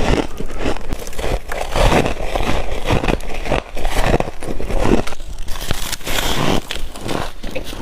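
Close-up crunching of teeth biting into frost, a dense crackle that comes as a run of separate bites.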